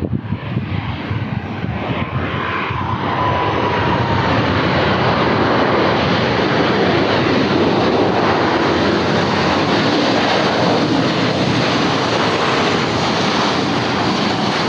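Airplane engine and rushing-air noise: a steady roar that builds over the first few seconds, then holds loud, with a faint falling whine near the start.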